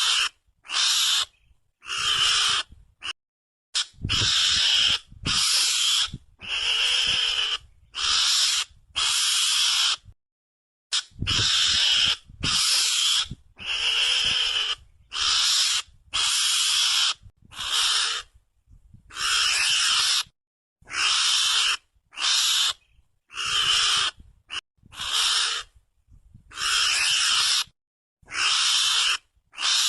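Mongoose (garangan) lure call: harsh, hissy squeals repeated about every second and a half, each under a second long, with silent gaps between.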